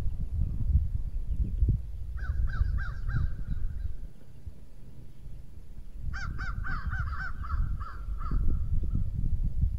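A bird calling in two runs of quick repeated notes, about three a second: four notes a couple of seconds in, then a longer run of about eight that fades away. A low rumbling noise runs underneath.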